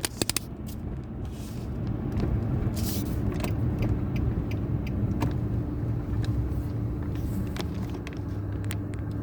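Car driving, heard from inside the cabin: steady engine and tyre rumble, with a few sharp clicks near the start and a steady hum that joins about three seconds in.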